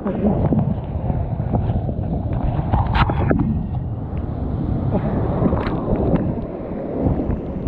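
Wind buffeting the microphone over rough sea water sloshing and splashing, with a few sharper splashes.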